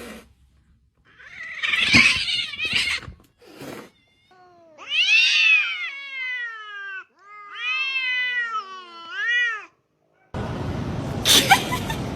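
A cat yowling: two long drawn-out calls, the first rising then falling, the second wavering. A short burst of noise comes before them, and a steady rush of noise near the end.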